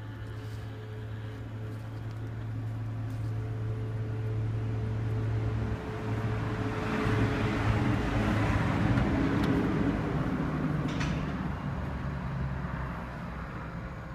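A machine motor hums steadily. A louder rushing noise builds about halfway through, holds for several seconds and then fades, with the hum running on beneath it.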